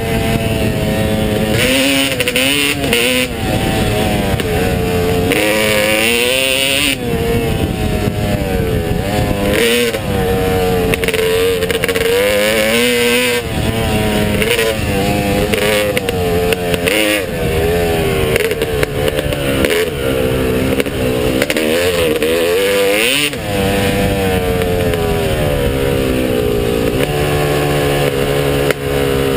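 Motocross bike engine under hard riding: its pitch repeatedly climbs and drops as the throttle opens and closes. It settles to a steadier, lower note near the end.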